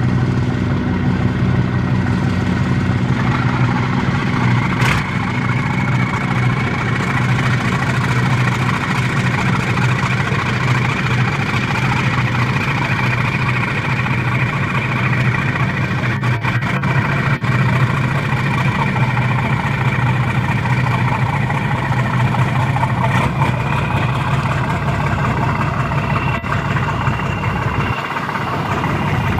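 Twin diesel engines of a 20 m coast guard patrol boat running steadily at low speed, with a faint whine above the engine note that rises slightly a few seconds in.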